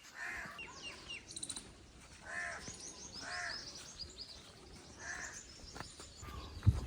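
Birds calling: four harsh, crow-like caws spaced one to two seconds apart, with thin high chirps of smaller birds in between. A single short knock comes near the end.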